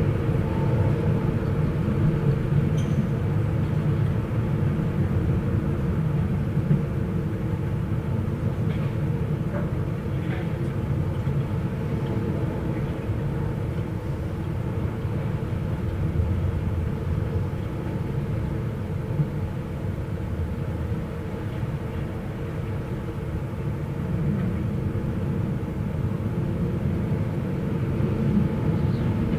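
Steady, rumbling wind-and-rain ambience, deep and even, with a few faint steady tones running through it.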